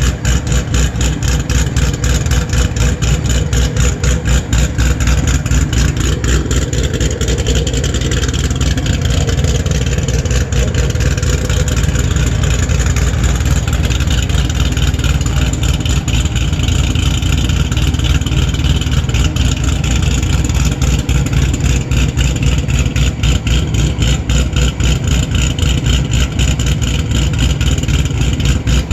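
2014 Chevrolet Camaro SS's 416 cubic-inch LS3 V8 idling steadily while warming up after a cold start, its exhaust pulses coming evenly.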